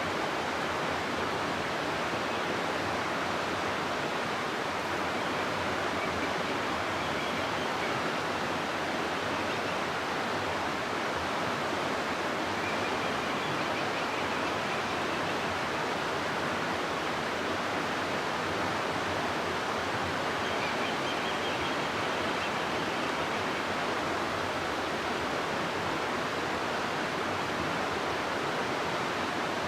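River water rushing through a rocky gorge: a steady, even rush of flowing water with no change in strength.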